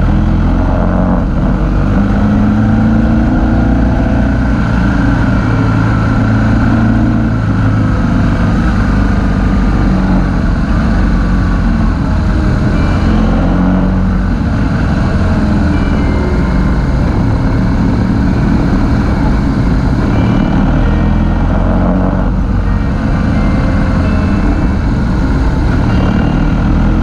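Motorcycle engine running under way, its pitch rising and falling as the throttle changes, over a steady rush of noise.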